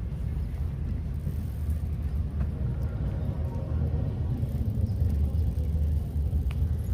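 Steady low rumble of wind buffeting a bike-mounted action-camera microphone while riding, mixed with city car traffic.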